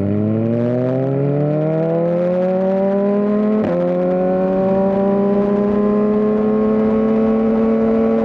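Suzuki GSX-R1000R's inline-four engine under way, revs climbing as it accelerates, with a quick upshift about a third of the way in that drops the pitch. It then pulls on in the higher gear, revs rising only slowly.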